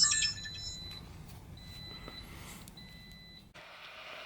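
Redtiger dash cam's electronic beeps while its menu buttons are pressed: a bright chirp right at the start, then a thin, high, steady tone that sounds in on-and-off stretches of about half a second. About three and a half seconds in it gives way to a quieter steady hiss.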